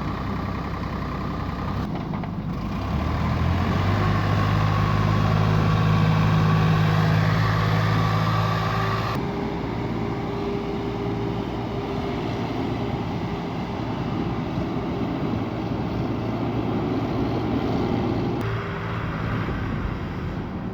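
Heavy diesel engines of a JCB backhoe loader and a tractor working under load as the JCB pulls the tractor. The engine note climbs about three seconds in and holds high, then changes abruptly twice.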